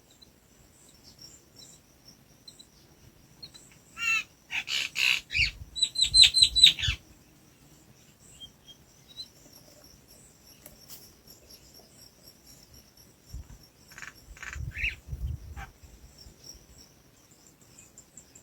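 Bird chirping in rapid runs of high, quickly repeated notes, one burst about four seconds in and another a little past the middle, with low muffled thumps alongside the calls. Faint thin high calls go on in the background.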